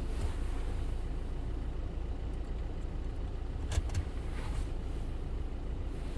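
2007 VW Golf's 2.0 TDI (BKD) diesel engine idling with a steady low rumble and a single click about four seconds in. This is the clatter the owner puts down to the dual-mass flywheel.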